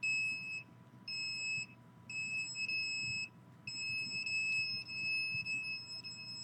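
Handheld meter's electronic alarm sounding a high, steady beep in irregular stretches, some short and some long, which the user takes as a sign of microwave signals aimed at her.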